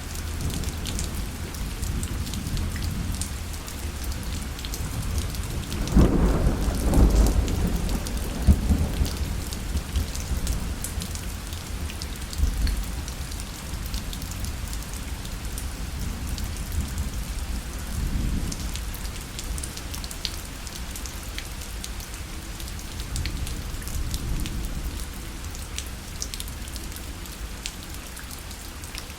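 Steady rain pattering on a parasol, with sharp drop taps throughout. A long low roll of thunder comes about six seconds in, and weaker rumbles follow later.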